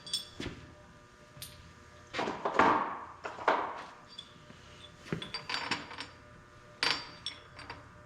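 Metal parts and tools clinking and clanking by hand, with short ringing after the sharper knocks and a longer scraping, sliding noise from about two to four seconds in.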